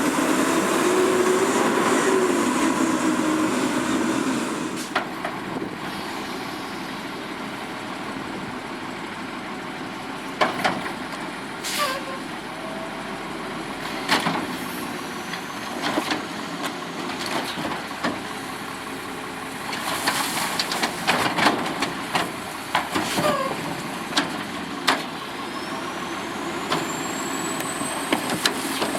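Garbage truck running: its engine is loud for the first few seconds, then settles lower. Over it comes a string of sharp knocks and clangs, and a thin rising whine near the end.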